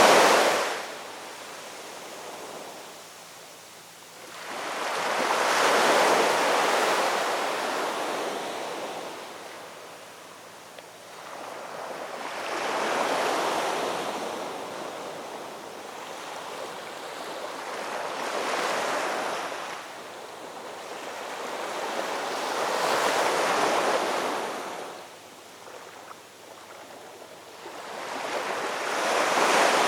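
Ocean waves breaking and washing on a shore, swelling and fading about every five to six seconds.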